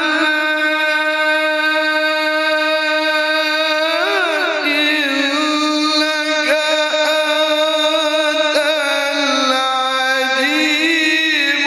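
A man's voice reciting the Quran in a melodic style, holding one long unbroken note with ornamental pitch turns about four seconds in, around eight and a half seconds, and again near the end.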